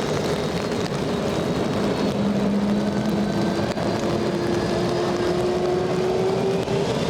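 Jet airliner engines running: a steady rush with several drawn-out tones that slowly shift in pitch.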